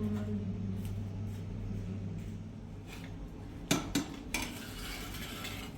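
Kitchenware clinking: two sharp knocks about three and a half seconds in, then a short hissing rush, over a steady low hum.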